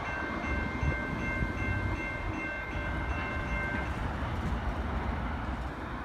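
Train passing with a steady low rumble, and a set of thin, high steady tones that stop about four seconds in.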